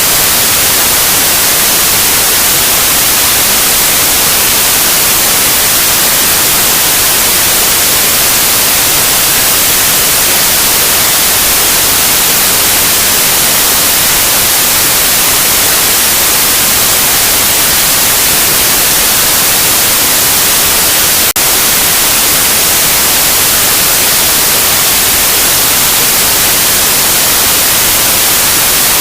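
Loud, steady white noise: an even hiss across the whole range, with a momentary dip in level about two-thirds of the way through.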